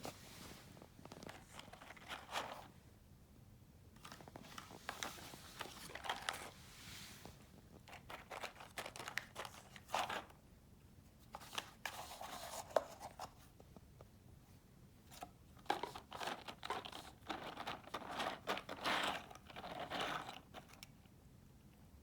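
Crinkling and rustling in irregular bursts over about twenty seconds, with a few sharp clicks and short pauses between bursts.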